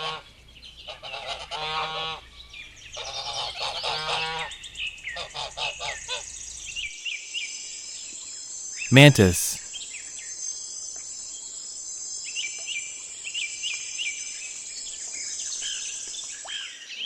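Geese honking over and over in short stacked calls for about the first seven seconds. After a spoken word, a steady high hiss with short repeated chirps follows to the end.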